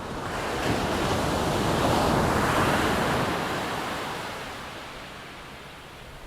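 A Boeing-Stearman PT-17 biplane's radial engine and propeller passing by as a rushing drone that swells to a peak about two to three seconds in, then fades away.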